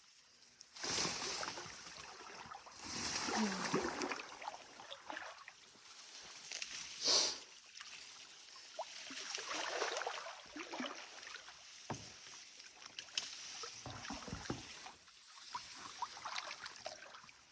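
A paddle dipping and pulling through water in repeated strokes, about six swells of splashing a few seconds apart.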